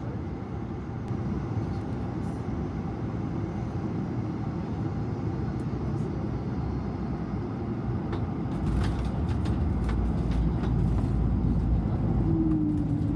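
Steady vehicle running noise: a low rumble that grows louder about two-thirds of the way through, with a faint tone that dips and rises again near the end.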